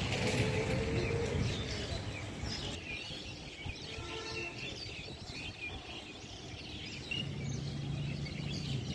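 Outdoor ambient noise with scattered faint bird chirps. A low steady hum, like a distant engine, comes in about seven seconds in.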